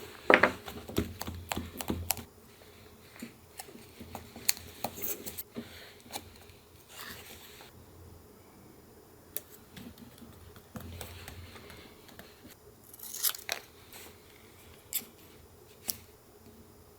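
Paper being handled for a collage: irregular rustles, snips and light taps, loudest right at the start and again about thirteen seconds in.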